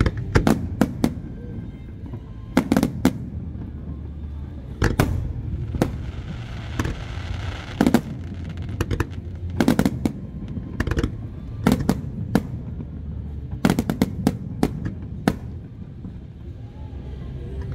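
Aerial firework shells bursting overhead in an irregular barrage of sharp bangs, some in quick pairs and clusters, over a steady low rumble, with a hissing, crackling patch about halfway through.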